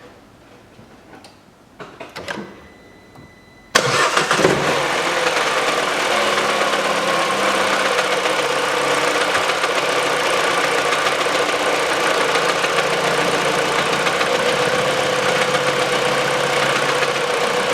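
A few light handling clicks, then about four seconds in a Peugeot 408's 1.6 petrol engine comes in suddenly and runs steadily at idle with a knock from the lower front of the engine. The owner puts the knock down to a stretched, cracked accessory drive belt that the tensioner, already at the end of its travel, can no longer keep tight, so the crankshaft pulley damper wobbles.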